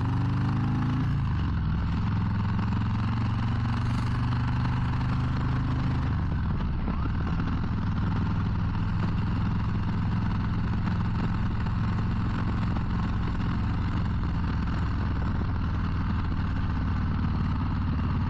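Harley-Davidson Low Rider ST's Milwaukee-Eight 117 V-twin running while riding, with wind and road noise. The engine note falls in the first second and changes pitch again about six seconds in, then holds steady.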